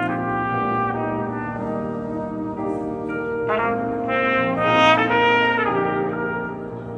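Live brass music led by a trumpet playing a sustained, held-note melody over lower brass parts, swelling brightest about four to six seconds in.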